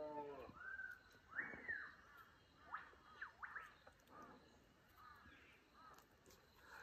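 Birds calling in the bush: short chirps and whistles sliding up and down, about two a second, at a low level. Just after the start, the end of a long, deep roar with a strong buzzy tone cuts off.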